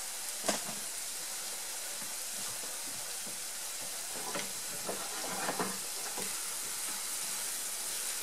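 Tomato-paste sofrito with chopped parsley sizzling steadily in a nonstick frying pan, with a faint tap about half a second in.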